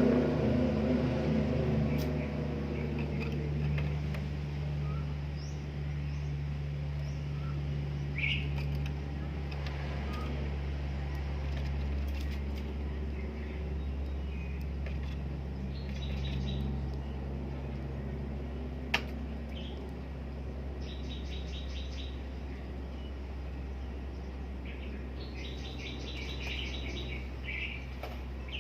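Caged Oriental magpie-robin (kacer) giving scattered short chirps and several quick rattling series of repeated high notes, a bird whose song is still being set. A steady low hum runs underneath.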